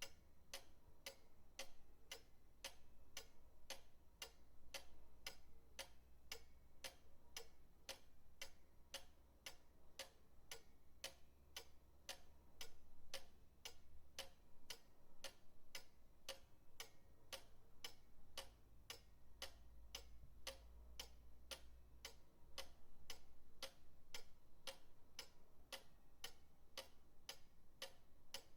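Pendulum clock ticking steadily, about two even ticks a second.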